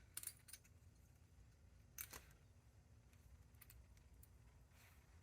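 Mostly near silence with a few faint metallic clicks: a pair near the start and one about two seconds in. These come from a lock tab and the gearbox sprocket nut being fitted by hand.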